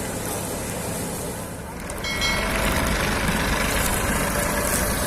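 Tractor diesel engine running, getting louder about two seconds in.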